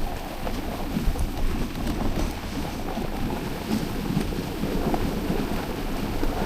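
A moving dog sled: a steady rumble of wind on the microphone and sled noise over snow, with many small irregular ticks and knocks.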